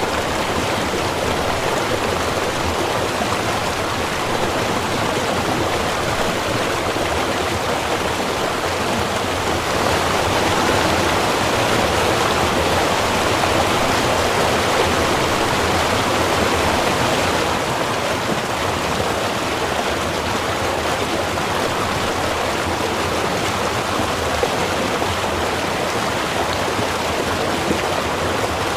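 A small river running steadily: a continuous rush of flowing water, slightly louder for several seconds midway.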